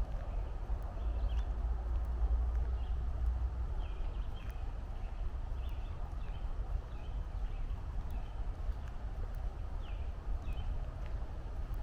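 Footsteps on a trail over a steady low rumble of distant highway traffic, with short bird chirps scattered throughout.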